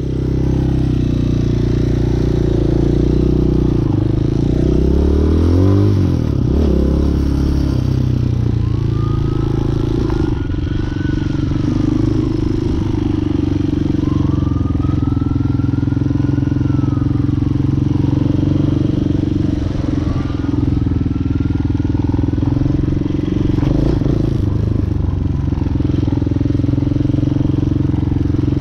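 Hawk 250 dual-sport motorcycle's single-cylinder engine running on the move, its revs rising and falling a few seconds in, then holding fairly steady.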